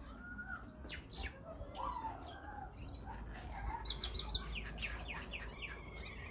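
Birds chirping and calling, with a quick run of four high notes about four seconds in and a trill near the end.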